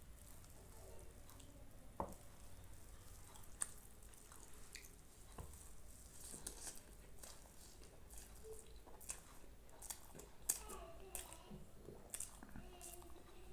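A person chewing food, with faint wet mouth clicks and squishes scattered through, more of them in the second half.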